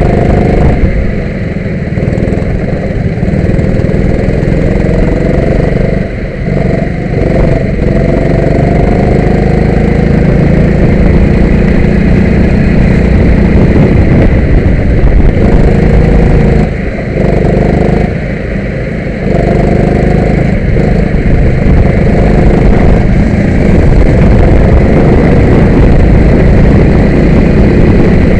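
Kart engine running hard, its pitch climbing and falling as the revs rise and drop, with a few brief dips where it eases off.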